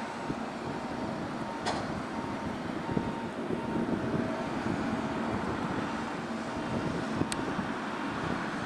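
Boeing 777-300ER's jet engines running with a steady rushing noise and a faint whine, with wind on the microphone. Two short sharp clicks, one under two seconds in and one near the end.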